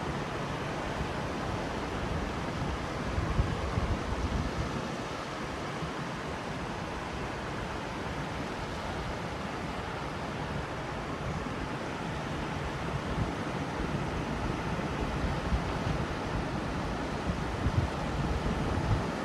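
Ocean surf washing steadily, with heavier low rumbles swelling up a few seconds in and again near the end.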